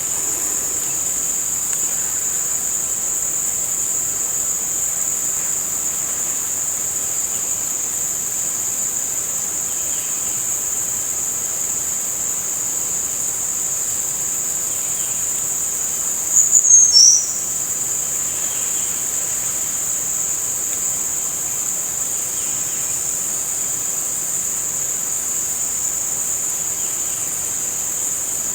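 Continuous high-pitched insect trill, steady throughout, like a cricket's. About two-thirds of the way through it is broken by a short, louder call that slides down in pitch for under a second.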